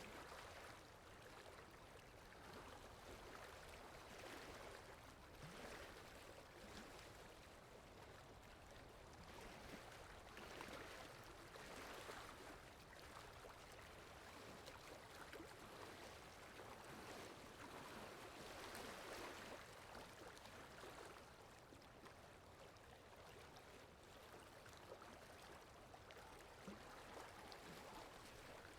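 Faint, steady rush of flowing water from a stream or waterfall, swelling and easing every few seconds.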